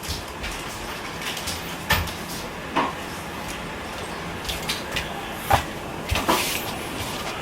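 Four separate knocks and clunks of parts being handled during a window air conditioner installation, over a steady hiss.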